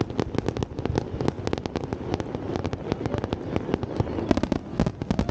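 Aerial fireworks bursting: a rapid, irregular string of sharp pops and bangs, about eight a second, over a low rumble.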